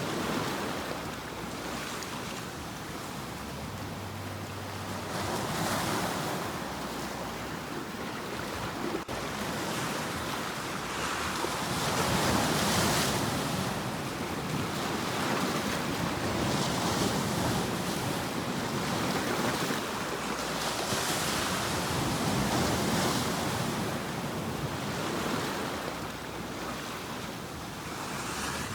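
Sea waves breaking and washing ashore, swelling and falling back in surges every few seconds, with the biggest surge about halfway through.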